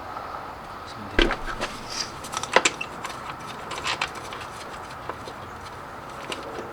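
Hand tools and parts being handled during car repair work: a handful of sharp knocks and clicks at irregular intervals, the loudest a heavy knock about a second in and a sharp click about two and a half seconds in.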